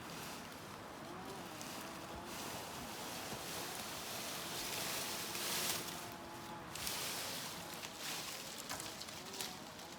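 Outdoor rustling with a hiss that swells and fades over several seconds, a few light clicks near the end.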